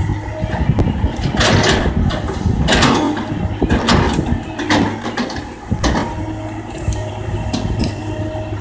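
Kobelco excavator's diesel engine running steadily under work, with about five short harsh noise bursts spaced a second or so apart as the machine digs.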